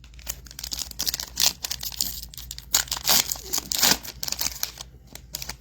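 Foil wrapper of a Topps Chrome trading card pack being torn open and crinkled, a run of irregular crackles and rips.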